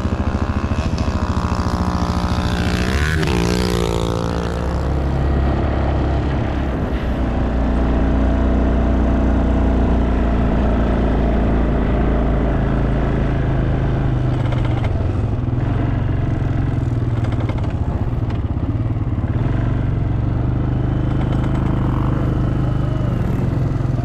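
Kawasaki 400 4x4 quad bike engine running steadily under way. About three seconds in, the engine note briefly rises and falls.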